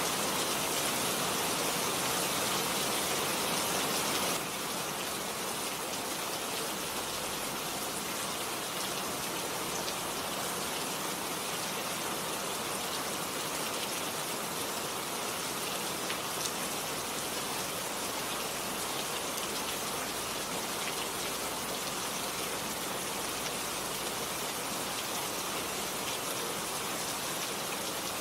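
Steady rain falling, a dense even hiss of drops. A little over four seconds in it drops slightly in level and stays even after that.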